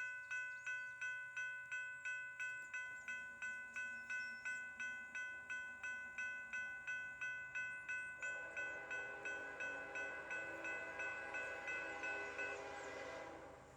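Railroad grade-crossing warning bell ringing in a steady rhythm of about three strikes a second, stopping shortly before the end. A lower hum joins about two-thirds of the way through, as the train approaches.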